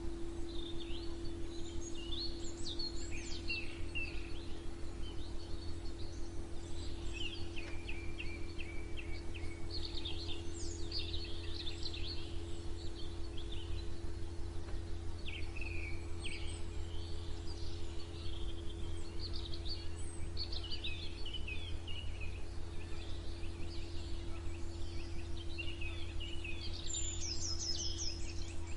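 Several songbirds chirping and trilling in overlapping short phrases, over a steady low hum.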